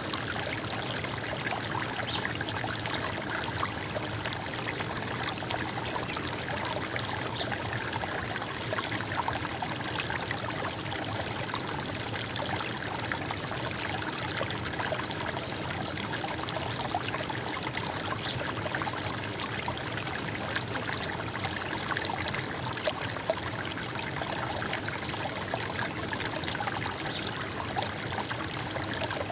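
Running water flowing and trickling steadily, a continuous gurgling rush without pause.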